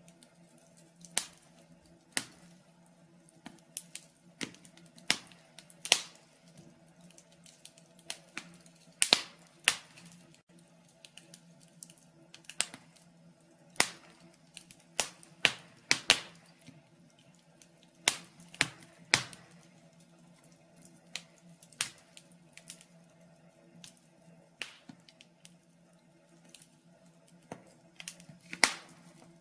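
Wood fire in a fireplace crackling, with irregular sharp pops and snaps every second or so, some louder than others, over a faint steady hum.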